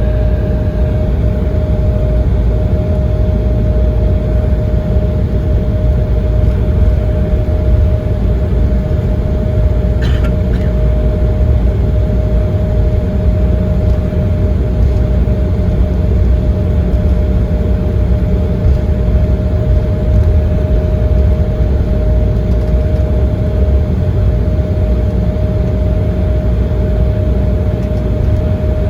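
Embraer 170 cabin noise: the GE CF34 turbofans and airflow make a steady, loud low rumble with a constant hum on top, heard from inside the passenger cabin. A faint click comes about ten seconds in.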